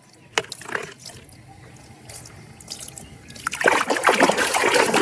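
Water trickling and splashing as a muddy plastic toy is rinsed clean, growing louder from about three and a half seconds in. A sharp click comes just before half a second in.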